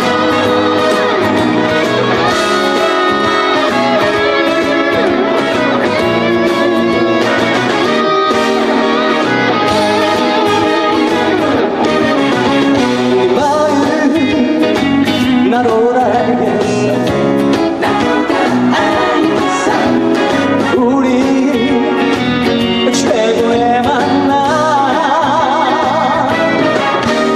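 Loud live band music, an upbeat trot dance medley.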